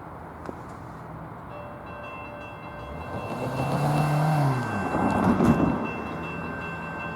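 A vehicle passes close by, its engine note dropping in pitch as it goes past and the noise swelling and fading over a couple of seconds. Steady ringing tones sound from about a second and a half in.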